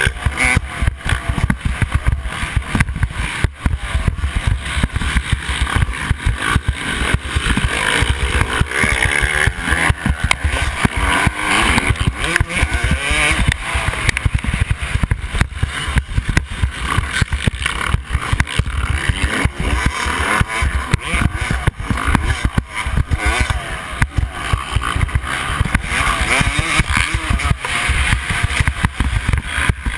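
Yamaha YZ250 two-stroke motocross bike engine revving hard, its pitch rising and falling continually as it is ridden around the track, with a constant rough buffeting over it.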